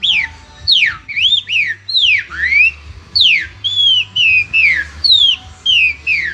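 Green-winged saltator (trinca-ferro) song: a rapid run of loud, clear whistled notes, each sweeping steeply down or up, several a second.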